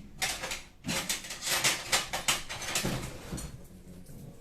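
Kitchen handling clatter as a fork is fetched and used on a microwaved mug cake: a quick run of clicks and knocks that thins out after about three seconds.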